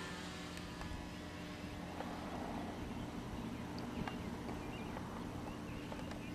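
Wind buffeting the microphone, with a faint steady low hum underneath and a few light ticks.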